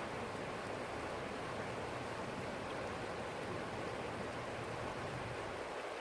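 Stream water flowing steadily, an even rushing sound, with a low rumble underneath that drops away near the end.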